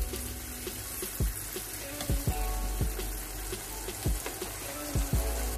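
Onions and capsicum in soy sauce and water sizzling in a nonstick wok, with a wooden spatula knocking and scraping against the pan several times as the mix is stirred.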